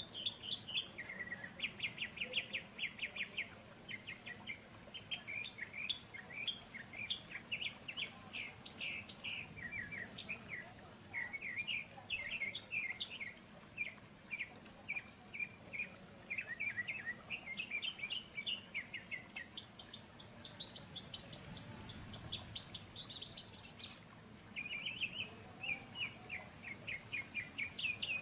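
Songbirds chirping and trilling in quick runs of short, high notes, one run after another with hardly a break.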